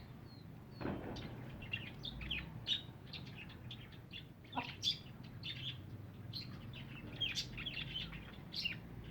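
Birds chirping: many short, high chirps and calls in quick irregular succession.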